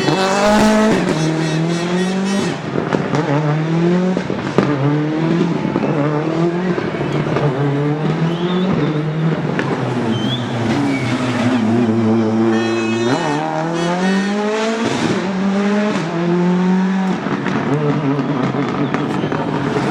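Rally car engine revved hard over and over, its pitch climbing and dropping about once every second or so, with a short steadier stretch before it climbs again near the end.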